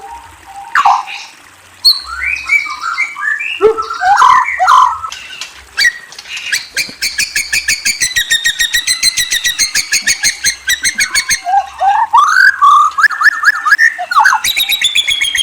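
A murai, a Copsychus songbird, singing: varied gliding whistled phrases, then a long rapid trill of evenly repeated notes lasting about five seconds, then whistled phrases again.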